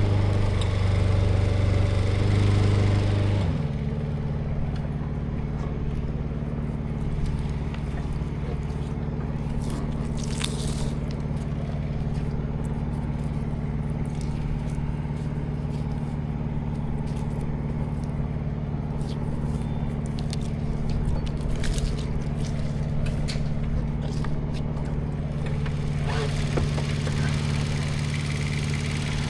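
An engine running steadily; about three and a half seconds in it drops to a lower, quieter idle. Scattered light clicks and scrapes sound over it.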